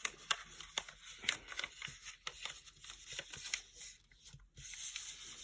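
Origami paper rustling and crackling in the hands as a flap is folded up and pulled out from behind, a run of small irregular crinkles.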